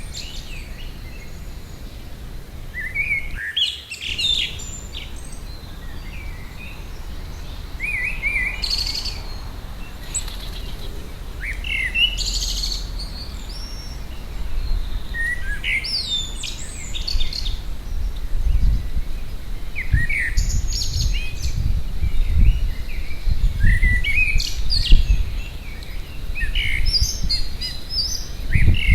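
Several garden birds singing and calling in short, scattered phrases. Over the later part a loud, irregular low rumbling is heard.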